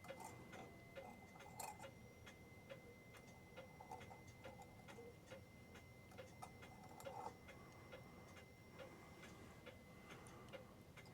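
New England Clock Company pendulum clock ticking faintly and steadily, about two ticks a second, with the bob just hung back on its pendulum and the clock not yet set in beat.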